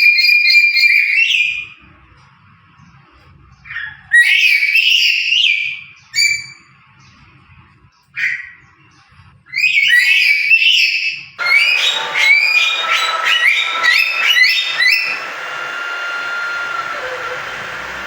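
Lory (nuri parrot) calling with loud, shrill, whistled calls in separate bursts, then from about eleven seconds in a long run of rapid chattering calls over a steady hiss.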